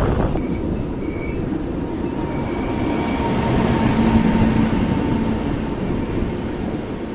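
Passenger train running along the track: a steady rumble of wheels on rail, swelling a little in the middle, with a few faint short high squeals.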